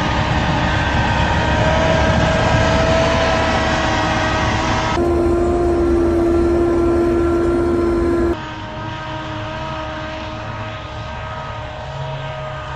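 Engine of a compact earth-moving machine running steadily, with a steady whine over the engine note. The sound changes abruptly about five seconds in and again about three seconds later.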